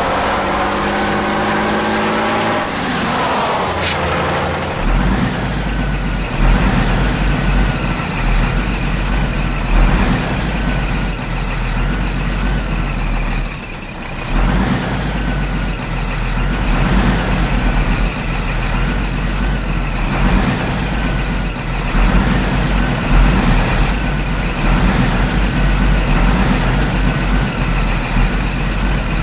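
Truck engine sound that rises in pitch over the first few seconds, then runs steadily with a low rumble and a pulse that repeats about every second and a half.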